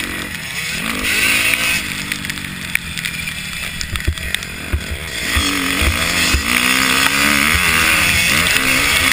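Several motocross dirt bikes racing past, their engines revving up and down through the gears, growing louder about halfway through. Gusts of wind thump on the microphone.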